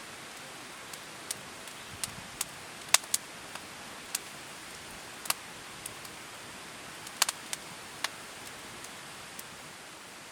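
Wood campfire crackling: irregular sharp pops, about a dozen, over a steady hiss.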